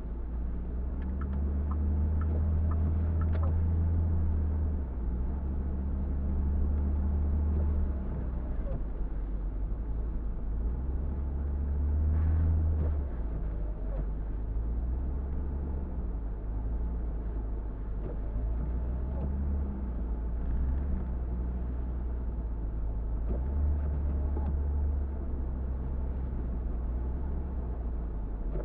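Car driving on a snowy city street: a steady low engine and road rumble that swells and eases every few seconds as the car speeds up and slows.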